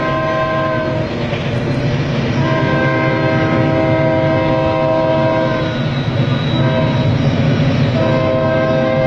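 Container freight train's horn sounding in long multi-note blasts over the steady rumble of the running train: one blast ends about a second in, a long one runs from about two and a half to nearly six seconds, a short one follows near seven seconds, and another begins near the end.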